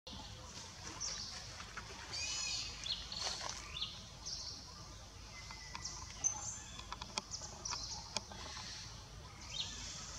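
Birds chirping and trilling in short high calls over a steady outdoor background, with scattered faint clicks and one brief held whistle about halfway through.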